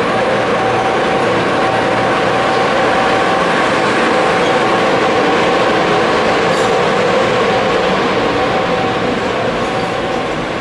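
Belgian SNCB class 20 electric locomotive and its passenger coaches rolling slowly past along the platform. A steady running noise of wheels on rail with a held humming tone, easing off slightly near the end.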